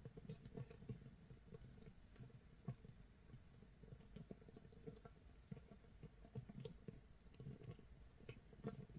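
Makgeolli starter mash fermenting in its jar, 24 hours in: faint, irregular crackling and popping as gas bubbles burst, close to the sound of light rain or rice crust toasting in a pot.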